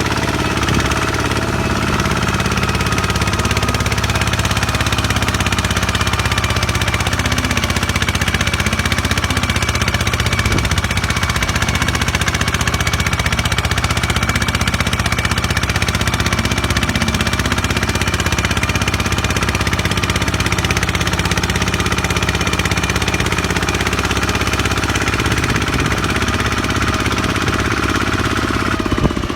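Tractor engine running steadily and loudly.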